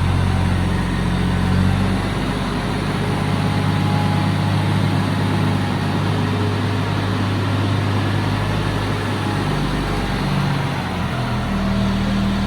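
Claas Xerion tractor's diesel engine purring steadily with a deep, even note that shifts a little near the end.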